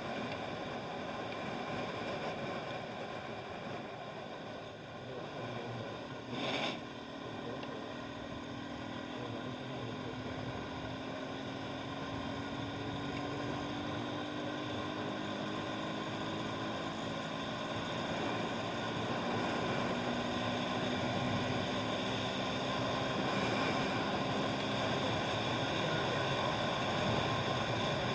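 Steady rushing road and wind noise of a motorbike ride in the rain, with a faint engine tone that slowly falls in pitch and a brief loud burst about six seconds in.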